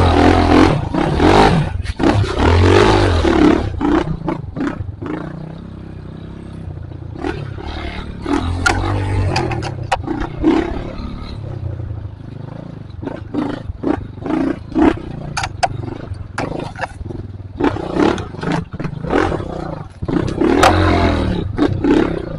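Trail motorcycle engine revving hard in repeated surges, its pitch rising and falling with the throttle, with short knocks and rattles over rough ground.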